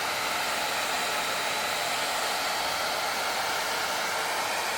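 Hot-air hair dryer brush running, blowing a steady rush of air while it curls a small strand of hair.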